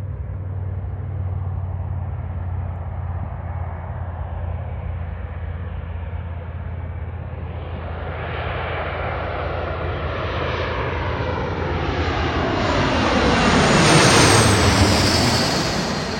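Jet airliner passing close, its engine noise building over several seconds to a loud peak about 14 seconds in, with a high whine that drops in pitch as it goes by, then fading.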